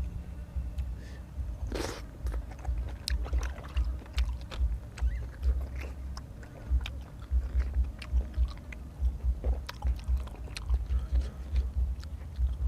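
A man chewing and biting food close to the microphone: a run of soft, irregular chewing thumps with many short crunchy clicks.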